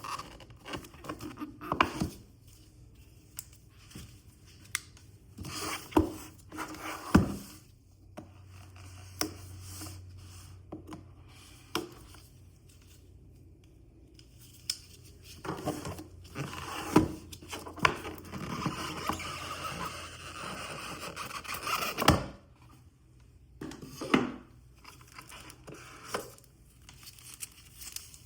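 Packaging handled while an unboxing is underway: cardboard and plastic wrapping tearing, crinkling and scraping, with scattered sharp knocks and taps. A long stretch of rustling tearing runs through the middle and ends sharply a little after twenty seconds in.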